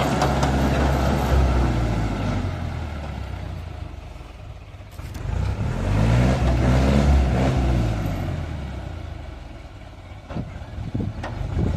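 Excavator's diesel engine working, swelling and easing off twice as it takes load and lets go, with its pitch bending as it revs. A few sharp knocks come near the end.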